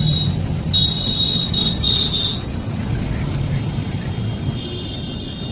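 Train running with a steady low rumble, and a thin high squeal, typical of wheels on rails, that comes and goes: once about a second in, for a second and a half, and again near the end.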